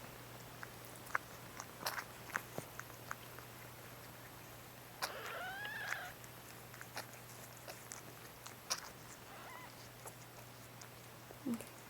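A cat gives a single high mew about five seconds in, about a second long, rising then falling, while giving birth to kittens. Soft scattered clicks and smacks come before it, and a fainter second mew follows later.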